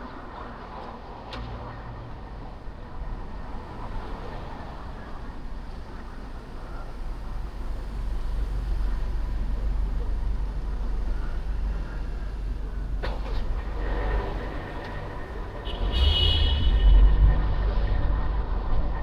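Car driving on city streets: a steady low rumble of engine and road noise that grows louder as the drive goes on. There is a sharp click about two-thirds of the way in, and a brief high tone soon after.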